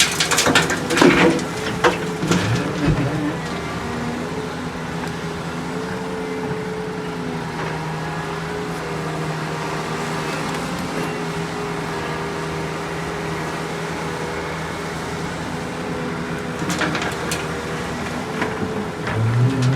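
Heavy diesel engine of earthmoving machinery running steadily, with bursts of sharp clatters and knocks in the first few seconds and again near the end.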